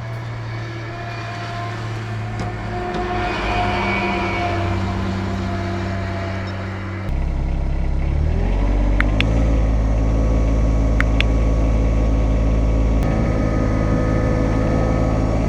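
Yanmar SA324 compact tractor's three-cylinder diesel engine running steadily. About seven seconds in it is throttled up: the pitch rises over a couple of seconds, then it holds at a higher, louder speed with a few light clicks.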